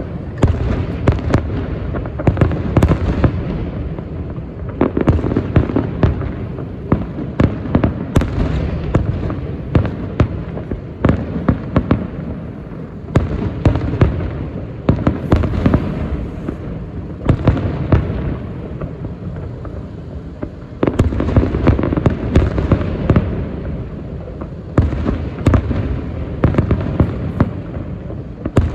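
Aerial fireworks display: shells bursting in quick succession, many sharp bangs over continuous rolling booms, with short lulls between volleys.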